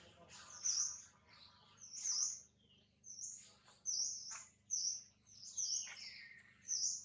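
Small birds chirping: short high calls repeated about once a second, some of them overlapping.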